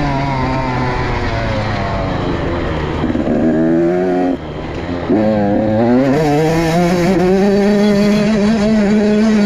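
Motorcycle engine running under load, its pitch easing slightly. About four seconds in it drops off briefly as the throttle closes, then rises over a couple of seconds and holds steady at higher revs.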